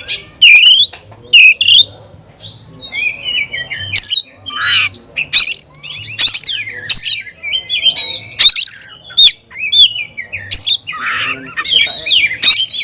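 Kacer (oriental magpie-robin) singing loudly and continuously: a fast, varied stream of whistled phrases mixed with sharp, harsh squawky notes.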